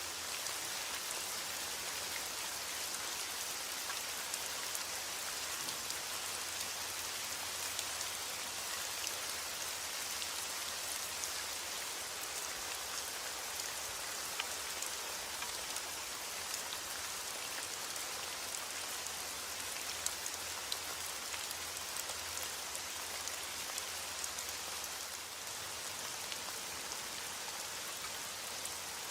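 Steady heavy rain falling on a surface, an even hiss with many small drop ticks scattered through it.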